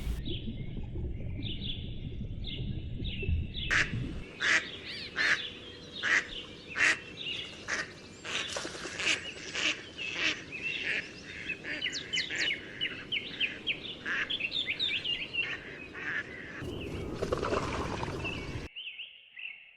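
Ducks quacking in short, repeated calls that start about four seconds in, over small birds chirping.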